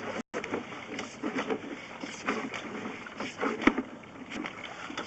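Irregular clicks, knocks and rattles of a sewer inspection camera's push cable being fed down the pipe, with a brief dropout in the audio just after the start.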